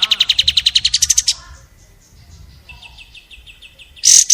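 A songbird's fast, tightly spaced trill that cuts off about a second in. A softer trill follows, then a few loud, sharp notes near the end.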